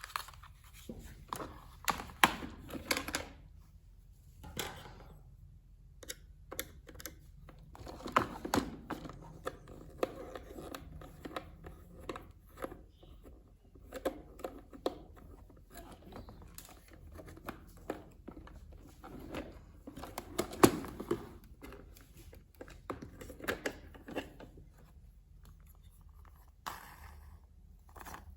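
RC toy unboxing: hands working the packaging, an irregular run of clicks, snips and scratchy rustling of cardboard and plastic, with a few sharper knocks, the loudest about twenty seconds in.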